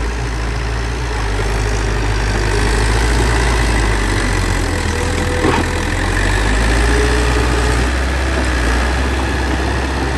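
Bulldozer's diesel engine running steadily with a deep drone, with a single sharp knock about halfway through.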